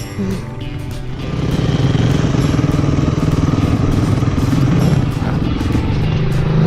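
Dirt bike engine running under throttle, getting louder about a second in and holding a steady high drone. Music plays underneath.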